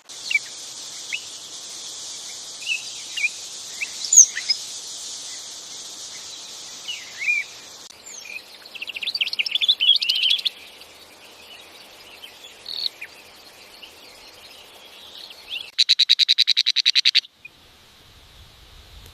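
Wild birds chirping and calling over a steady high-pitched hiss, with a quick run of notes midway and a loud, fast trill near the end.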